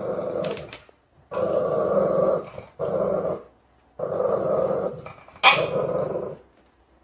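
Dog growling in a series of drawn-out growls, about five of them with short pauses between.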